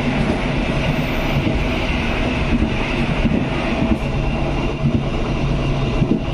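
Train on the move: a loud, steady rumble of wheels on the rails with a low drone that fades in and out.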